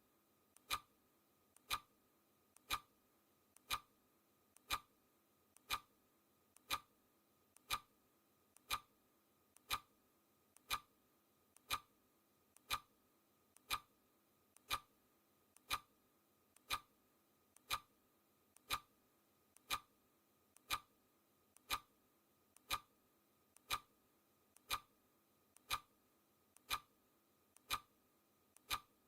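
Clock ticking sound effect of a countdown timer, one sharp tick per second at a steady pace, each tick led by a fainter click.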